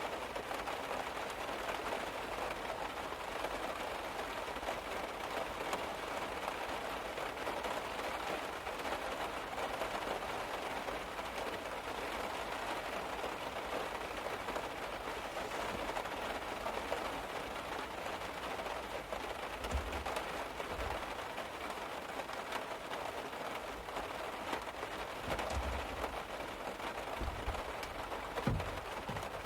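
Steady rain on a car's roof, heard from inside the car: an even, dense patter. A few soft low thuds come in the last ten seconds.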